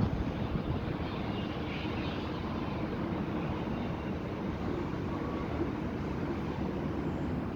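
Lawn mower engine running steadily under load while mowing.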